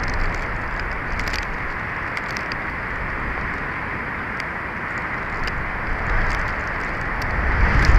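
Strong wind buffeting the nest camera's microphone: a steady rushing hiss with a low rumble that swells in a gust near the end, and scattered faint ticks.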